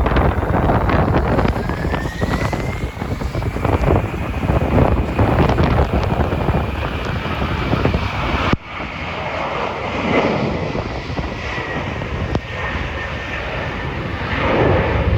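Airliner engines passing with a whine that rises and then slowly falls in pitch, under heavy wind buffeting on the microphone. The wind noise drops abruptly about eight and a half seconds in.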